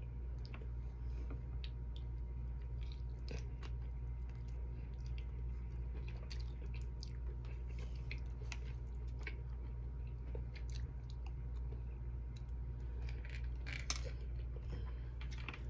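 A person chewing a mouthful of baked chicken and rice, with scattered small clicks of eating, over a steady low hum. A sharper click comes near the end.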